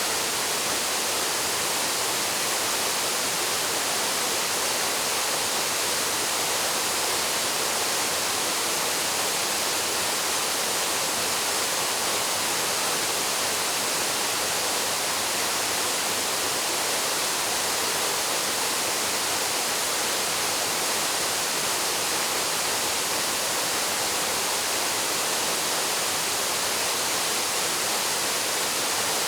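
Paraeso Falls, a mountain waterfall, pouring steadily: an even, unbroken rush of falling water, mostly a high hiss with little low rumble.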